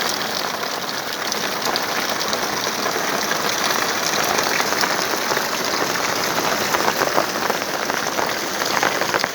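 Steady rain falling on a hard surface: a dense, even hiss made of many small drop impacts.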